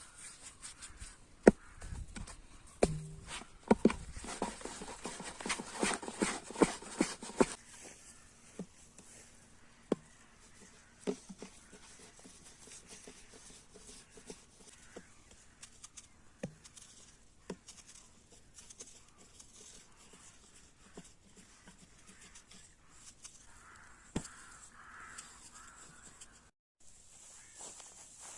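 Scattered clicks and knocks, dense for the first seven seconds or so, then sparse single knocks over a faint steady hum.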